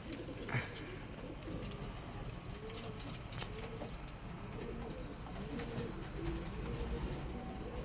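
Domestic pigeons cooing, a run of repeated low, arching coos one after another.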